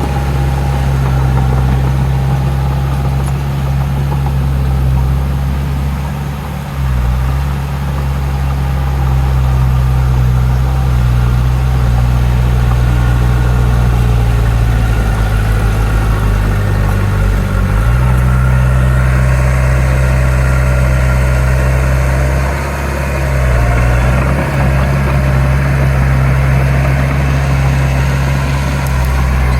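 Heavy diesel engine of earthmoving machinery running steadily; its note dips and shifts briefly a few times as the load changes.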